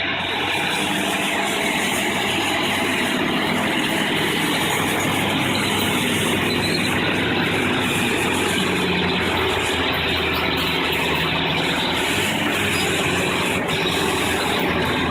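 Heavy machine's engine running steadily under loud, continuous mechanical noise.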